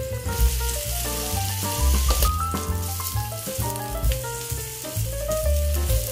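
Slices of Spam sizzling in hot oil in a frying pan, a steady spitting hiss, over background music with a bass line.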